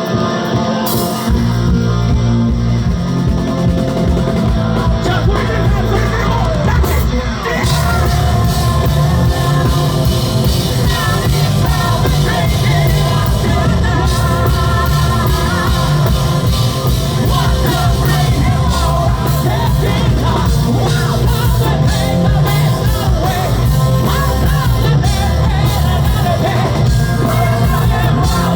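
Live rock band playing loudly with a sung and shouted lead vocal. The full band, heavy bass included, comes in about a second in.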